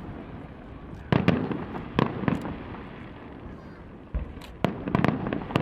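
Aerial fireworks shells bursting: a pair of sharp bangs about a second in and another pair about two seconds in, each ringing out in echo, then a deep thud followed by a rapid run of bangs near the end.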